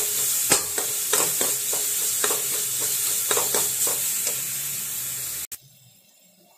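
Sliced onions and tomato sizzling as they fry in a shallow pan, with a steel spoon scraping and clacking against the pan as it stirs them. The sizzle cuts off suddenly about five and a half seconds in.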